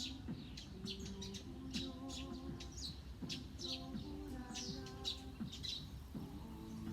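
Wild birds chirping and twittering, many quick short calls one after another, over soft background music with long held notes.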